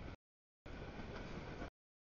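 Freight train cars rolling past: a steady rumble of wheels on rail. The audio cuts out to dead silence twice, briefly just after the start and again near the end.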